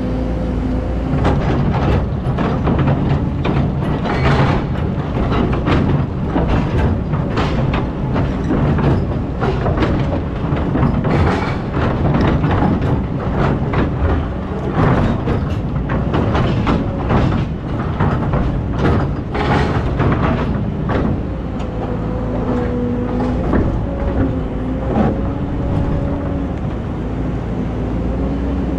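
Excavator's diesel engine running steadily, with frequent metallic clanks and knocks from the machine at work in sand and stones.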